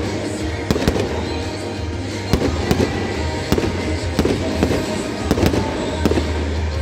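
Aerial fireworks going off in quick succession: an irregular string of sharp bangs and crackles from bursting shells and rising comets, with music playing in the background.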